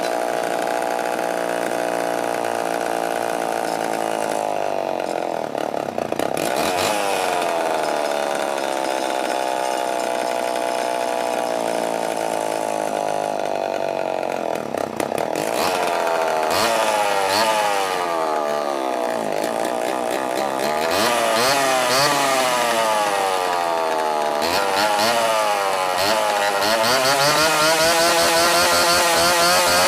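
1974 Homelite XL-12 two-stroke chainsaw engine running, its speed rising and falling again and again as the throttle is worked. The revving gets quicker and more frequent in the second half.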